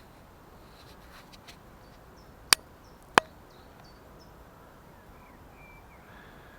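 Steady rush of a small stream, broken by two sharp clicks about two and a half and three seconds in, less than a second apart, with a few faint bird chirps.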